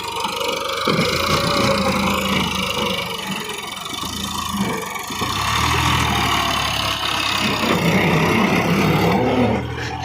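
Massey Ferguson 260 tractor's diesel engine running, its low note growing stronger about halfway through.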